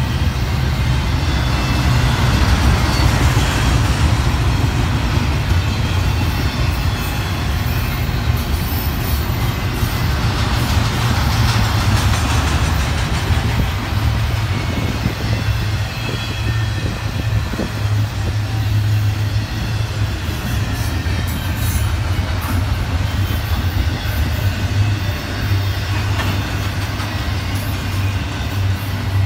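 Double-stack intermodal well cars rolling past: a loud, steady rumble of steel wheels on the rails.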